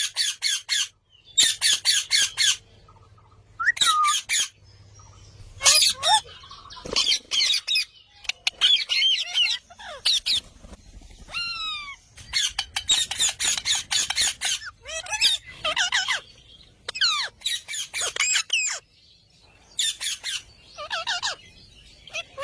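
A green parrot calling in repeated bursts of rapid, harsh squawks and chirps, with a few gliding whistled notes, broken by short pauses.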